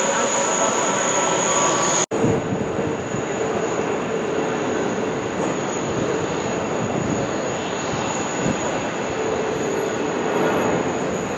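Jet airliner engine noise, a steady loud rumble, with a brief dropout about two seconds in.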